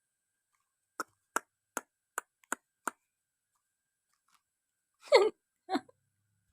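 A pet talking myna making a run of six sharp clicks, a little over two a second, then two short calls that fall in pitch.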